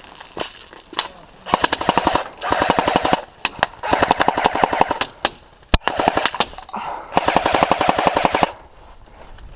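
Airsoft guns firing on full auto: several rapid bursts of sharp shots, the longest near the end, with a few single shots between them.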